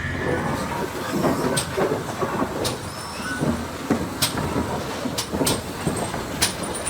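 Railway train running on the track, a steady rumble broken by irregular sharp clanks and clicks.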